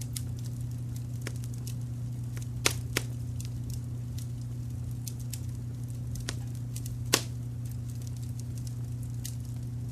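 Wood fire crackling, with scattered sharp pops, the loudest about a third of the way in and again past two-thirds, over a steady low rumble of brown noise.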